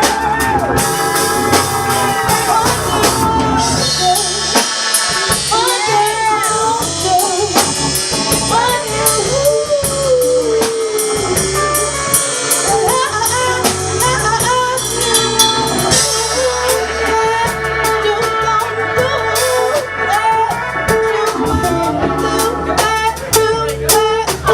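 Live band music: a drum kit keeping a steady beat under bass and a winding lead melody line.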